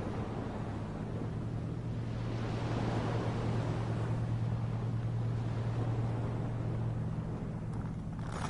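Surf on a beach, with one wash of water swelling and fading in the middle, over a steady low hum.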